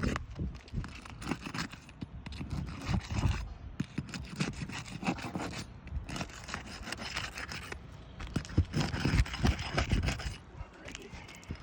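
Uneven scraping and rubbing on asphalt roof shingles, in stops and starts.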